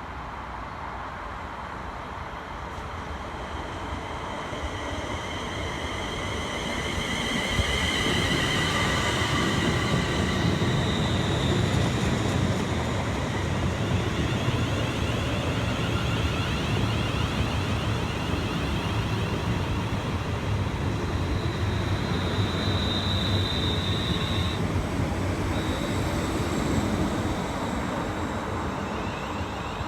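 A train running along the platform line, a low rumble that builds over the first several seconds and stays loud, with steady high whining tones over it.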